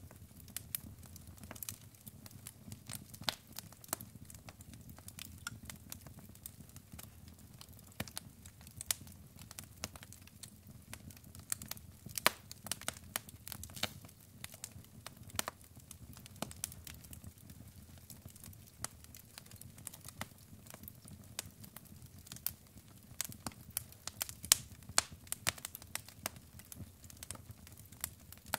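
Wood fire burning in a fireplace: logs crackling with many sharp, irregular pops over a low, steady rumble of flame.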